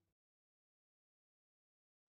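Digital silence: the background music cuts off just after the start and nothing follows.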